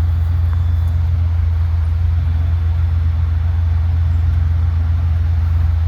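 Off-road vehicle engine running with a steady low drone and an even pulse, holding speed without revving up or down.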